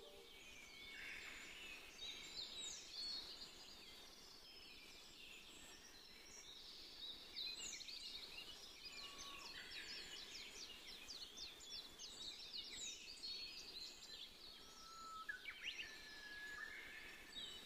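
Faint outdoor birdsong: several birds chirping and trilling with quick high calls, and a high whistle that falls in pitch every few seconds, over a faint steady background hiss.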